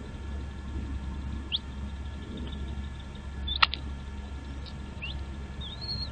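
A small bird giving a few short, high chirps that sweep upward, with a longer call near the end. A single sharp click about three and a half seconds in is the loudest sound, over a steady low rumble.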